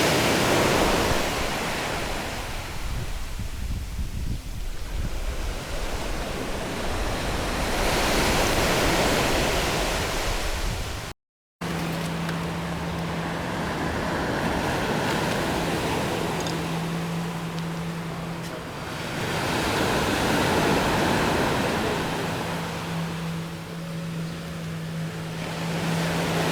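Sea waves washing on a shore, the rush swelling and fading every several seconds. After a short break about eleven seconds in, a steady low hum runs under the surf.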